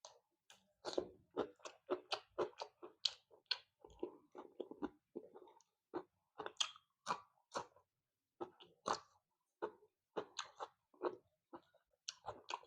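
A person chewing fried fish close to the microphone: a quick, uneven run of short crunches and mouth clicks.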